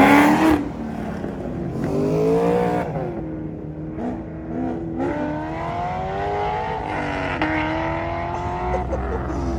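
Car engines revving and accelerating. A very loud rev right at the start is followed by several more rising engine notes, with a steadier engine note in between.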